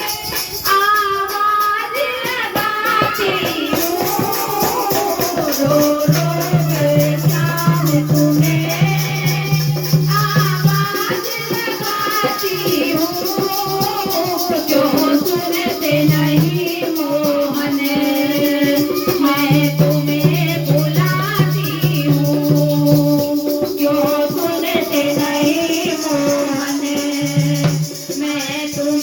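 Hindi devotional bhajan to Shyam: a woman singing a melody over a steady rattle or shaker rhythm and held accompanying tones.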